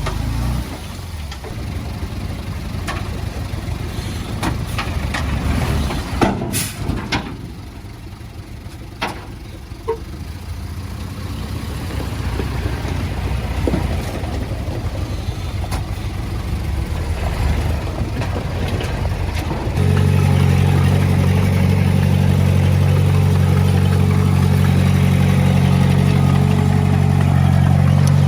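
Heavy diesel machinery running as a low rumble with scattered knocks and clanks; about twenty seconds in, a loud, steady diesel engine note takes over abruptly and holds to the end.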